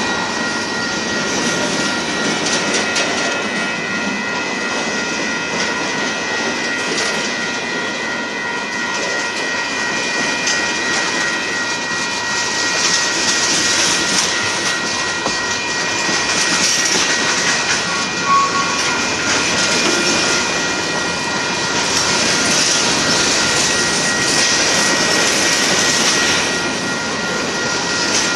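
Freight train cars rolling past at a steady speed: a continuous rumble and rush of steel wheels on rail, with steady high-pitched tones over it. The noise swells and eases a little as the cars go by.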